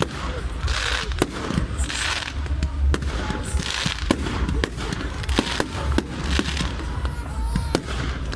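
Fireworks going off: a rapid series of sharp bangs from bursting shells and firecrackers, with bursts of crackling hiss between them.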